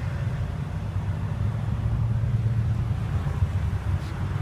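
Steady low rumble with a light hiss, with no distinct events.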